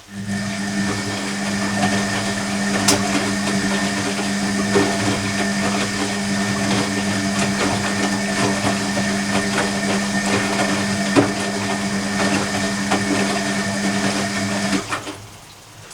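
Hoover Electronic washing machine running steadily during a cottons 40 wash: a strong motor hum with light clicks and rattles, stopping abruptly about fifteen seconds in.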